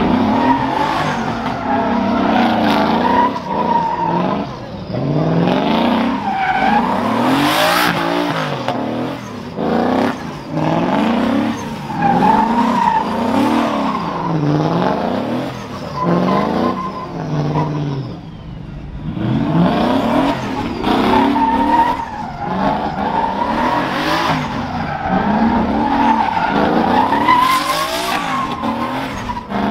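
Vehicle engines revving up and down over and over, with a steady tyre squeal throughout, as in a burnout.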